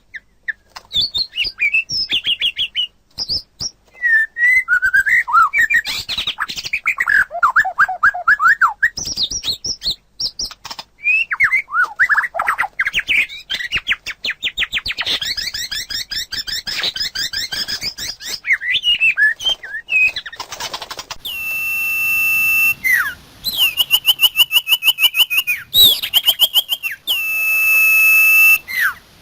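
Songbird singing a varied song of rapid trills and sliding whistled notes. About 21 seconds in it gives way to long, steady, pure whistled notes, several in a row with short gaps between them.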